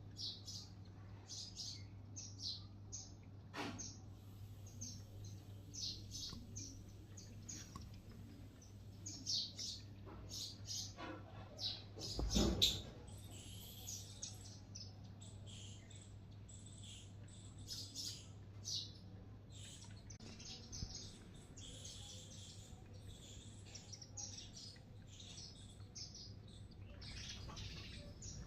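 Many short, high-pitched bird chirps and tweets, repeated quickly and irregularly, over a steady low hum. A louder bump or rustle comes about twelve seconds in.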